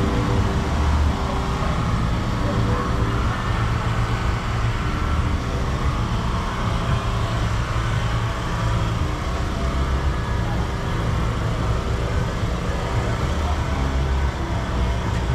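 A car engine running steadily with a low rumble, with voices in the background.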